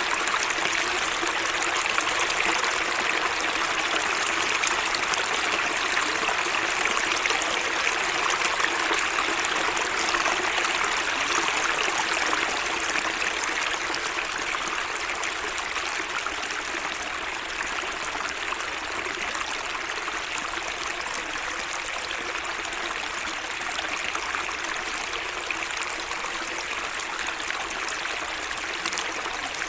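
Water running steadily in a small garden waterway, a little quieter from about halfway on.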